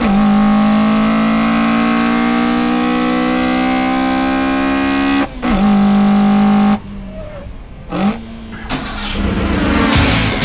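Toyota AE86 Sprinter Trueno's four-cylinder engine revving hard, its pitch climbing slowly for about five seconds, dipping briefly, then held high until it cuts off sharply about seven seconds in. A short rev blip follows around eight seconds, then a rising noise near the end.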